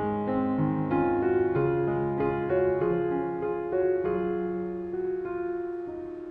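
Background piano music, soft and slow, with notes sounding together over held low notes.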